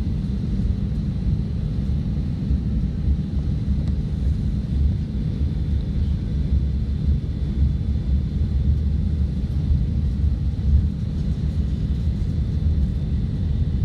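Jet airliner cabin noise in flight: a steady low rumble of engines and rushing air, with a faint high whine.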